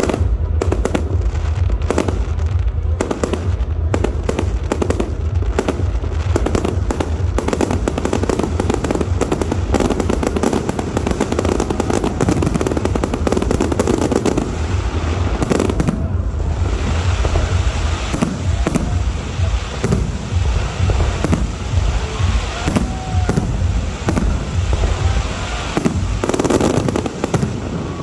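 Fireworks going off in a rapid, dense series of bangs and crackles. After about 16 seconds the bangs thin out into separate, spaced blasts.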